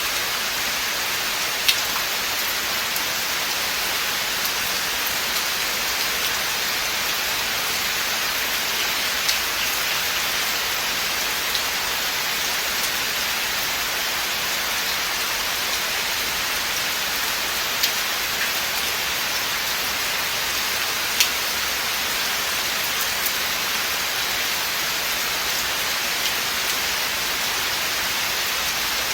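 Steady rain falling in a forest, an even hiss with occasional sharp drip ticks scattered through it.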